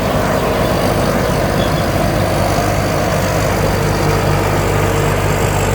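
Rice combine harvester with a 260 hp Hino J08C diesel engine running steadily at working speed while harvesting, an even, loud drone with a faint high whine above it.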